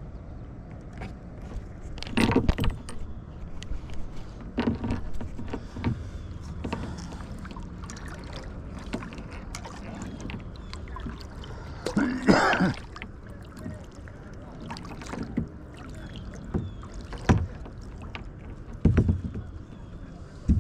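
Kayak paddling: irregular paddle strokes dipping and splashing in the water every few seconds, over a steady low rumble, with one louder stroke about twelve seconds in.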